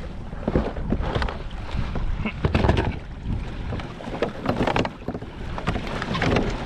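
Wind buffeting the microphone, with irregular knocks, rustles and splashy handling noises every second or so as a freshly caught flounder is handled on a small boat.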